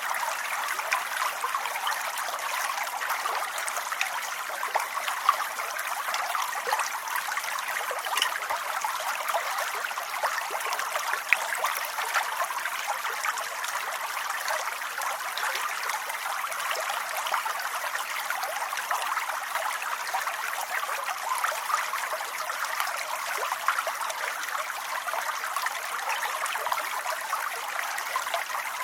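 Steady rain: an even hiss with many small, sharp drop ticks scattered through it, unchanging throughout.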